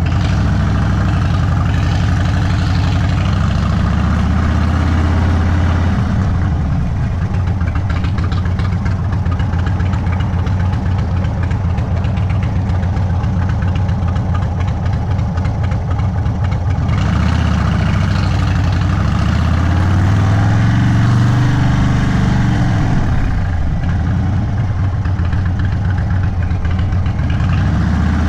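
Indian Sport Chief's stage 2 V-twin with a Sawicki Speed exhaust running loud and steady, its pitch rising and falling with the throttle, most clearly in the last third.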